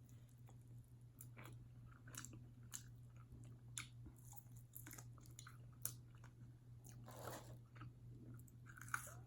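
Faint, close-up chewing of honey barbecue chicken wings: irregular small clicks and crunches of teeth and mouth, over a steady low hum.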